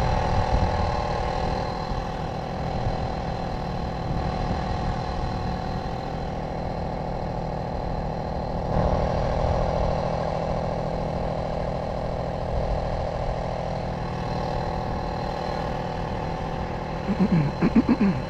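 Tomos moped's small two-stroke engine running at a steady speed, with a low rumble underneath.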